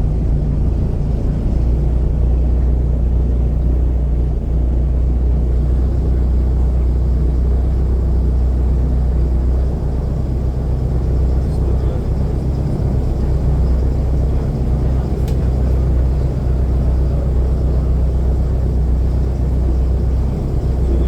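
Airboat's engine and propeller running steadily, a loud, even low drone.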